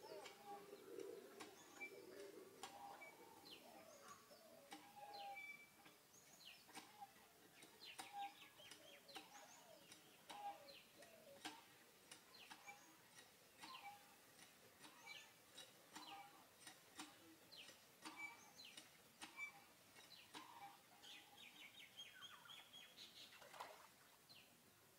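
Faint birdsong: many short chirps and brief whistled notes at several pitches, with scattered faint clicks.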